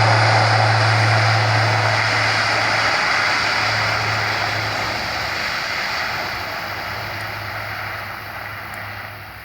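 Airbus A400M's four turboprop engines and eight-bladed propellers departing: a steady low propeller hum over a broad rush of engine noise, fading steadily as the aircraft moves away.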